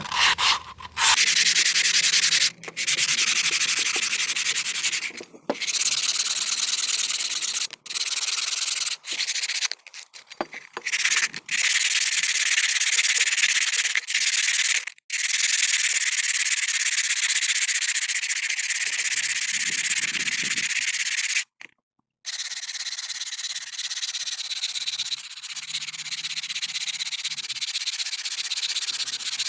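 Abrasive sanding, a loud steady hiss that stops and restarts several times, cuts out briefly about two-thirds of the way through, then carries on a little quieter.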